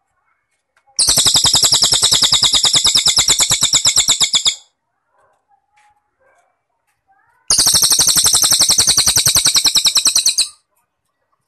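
Cililin songbird giving a fast, evenly pulsed high trill in two bouts of about three and a half and three seconds, separated by a few seconds' pause.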